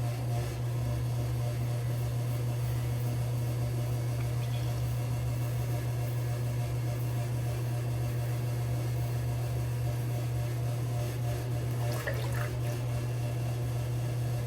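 A steady low hum with a faint even hiss, unchanging throughout; a brief faint scrape or rustle about twelve seconds in.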